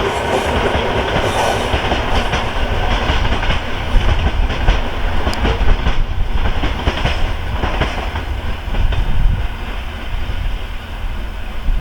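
Freight train wagons rolling past, a steady low rumble with irregular knocks of wheels over the rail joints.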